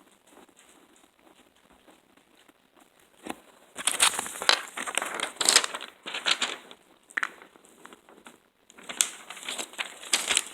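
Crinkling, rustling handling noise that starts about four seconds in and comes in dense bursts, with a short pause before it picks up again.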